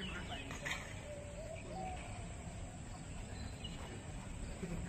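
Birds calling, a few short wavering calls in the first couple of seconds, over a steady low rumble of outdoor background noise.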